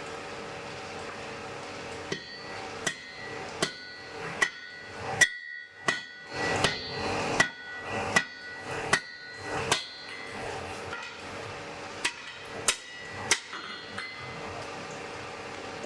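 Blacksmith's hammer striking on an anvil: a run of ringing blows at a steady beat of a little more than one a second, then a short pause and three more blows, over a steady background hum.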